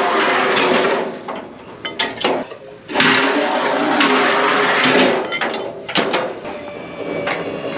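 Car-hauler trailer's hydraulic deck being raised: two long spells of rushing hydraulic noise with a low hum, and sharp clicks and clanks of the levers and steel deck between and after them.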